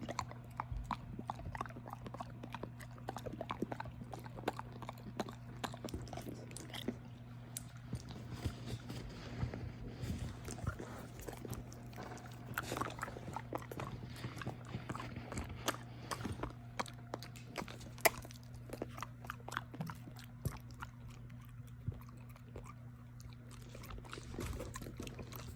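Mexican hairless dogs (Xoloitzcuintli) chewing and crunching treats: irregular crunches and clicks, with one sharper snap about eighteen seconds in.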